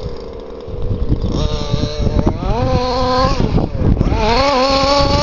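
Two-stroke 29cc petrol engine of an FG Marder Beetle 1/5-scale RC car with an expansion pipe, running low at first and then revving up twice, its pitch rising each time with a dip between the two runs.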